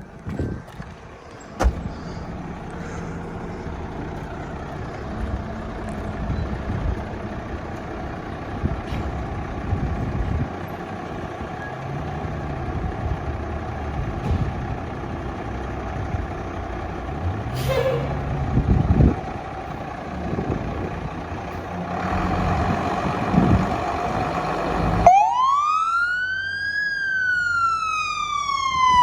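Fire engine running with a steady rumble and a few knocks. About 25 seconds in its siren switches on, a loud wail that rises and falls slowly.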